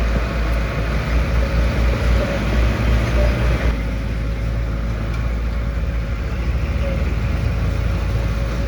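Diesel engine of heavy earthmoving machinery running with a deep rumble, which turns steadier and duller a little under four seconds in.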